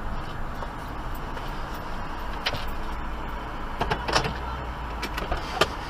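Steady low drone of a car engine heard from inside the cabin. A few sharp clicks come about two and a half, four and five and a half seconds in.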